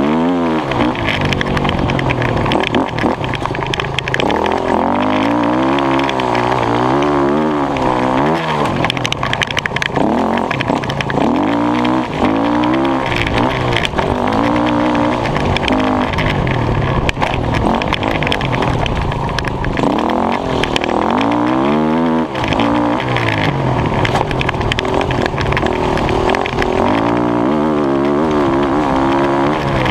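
Dirt bike engine, heard close up from a camera mounted on the bike, revving up and falling back again and again as it is ridden, over a steady noisy rush.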